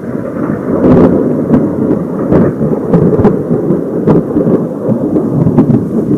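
Loud, close thunder rumbling, with many sharp crackles, growing louder in the first second.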